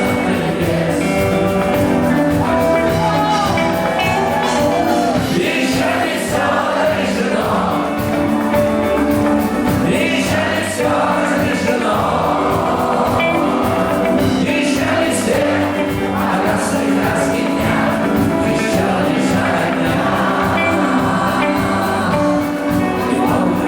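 A live rock band playing a song, with a lead singer's vocals over guitars, keyboards and drums.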